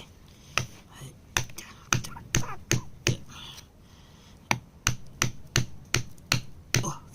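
Hand tool tapping and chipping at hard rock to free a mineral specimen: a run of sharp, separate strikes, about two to three a second, pausing for a second or so in the middle before going on.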